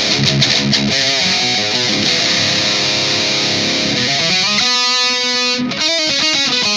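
Electric guitar riffing through an overdriven amp, with a held chord ringing out about halfway through, then a quick break and more picked notes.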